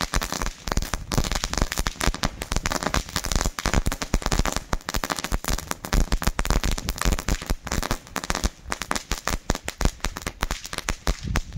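Funke Knisterfeuer, a small category B crackling firework, giving off a dense, continuous stream of sharp crackles that thins out near the end.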